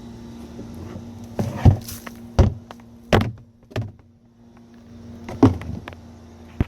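A series of sharp knocks and clacks, about six spread over several seconds, over a steady low hum that cuts off near the end.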